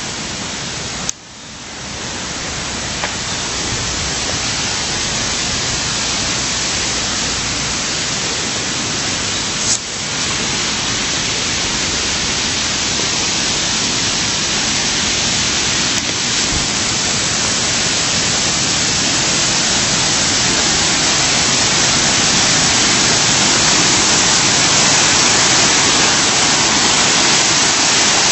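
Steady rush of flowing water, a loud even hiss that slowly grows louder, with a brief drop about a second in.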